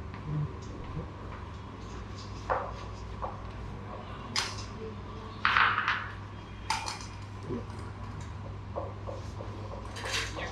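Scattered clinks and clatters of kitchen utensils and dishes being handled, over a steady low hum.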